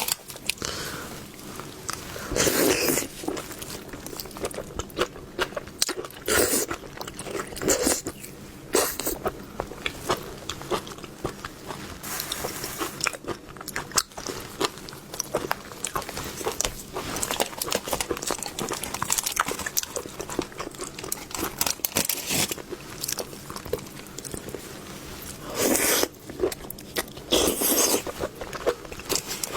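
Close-miked eating of seafood: steady chewing and biting with many small wet clicks, and a few louder crunchy bites or slurps scattered through.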